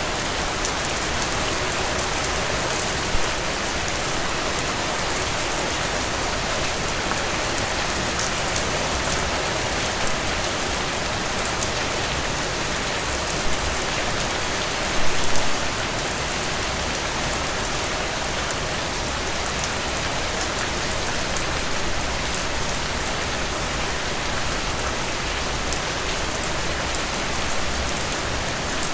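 Steady rainfall, drops pattering on a surface, with a few louder drips splashing about three seconds in and around the middle.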